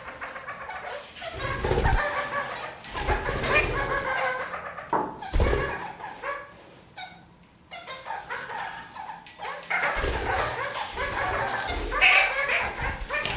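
Red-crowned kakariki (parakeets) chattering, with a run of quick, broken calls, a few low thumps mixed in, and a short lull about halfway through.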